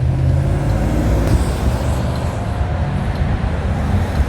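Street traffic: motor vehicles running and passing with a steady low rumble.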